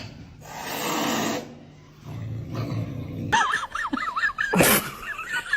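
A dog whining in quick, high, wavering squeals that start a little past halfway, after a brief rush of noise about a second in.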